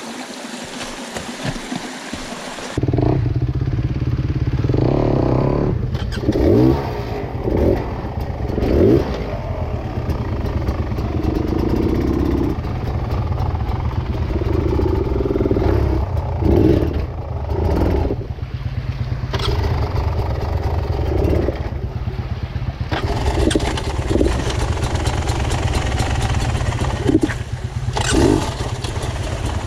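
Dirt bike engine running and revving up and down again and again, one rev after another. The first few seconds hold only a steady rushing noise before the engine sound comes in abruptly.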